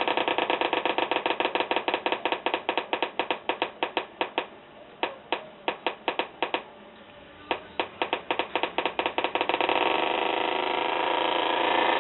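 Electronic theremin playing through a speaker, making a buzzy pitched tone chopped into rapid pulses. The pulses slow to separate beeps about halfway, stop briefly, then speed up again and run together into a steady tone near the end.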